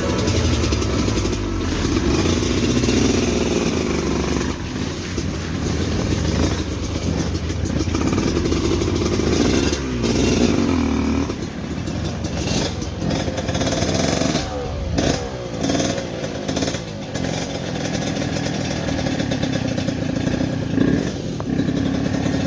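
Motorcycle engine pulling up a rocky, slippery climb, the revs rising and falling again and again as the rider works the throttle.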